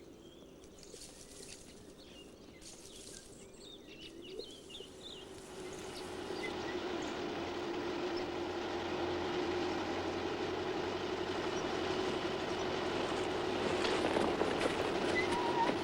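A few faint chirps and clicks, then from about six seconds in a steady machine noise with a constant low hum fades up and keeps running.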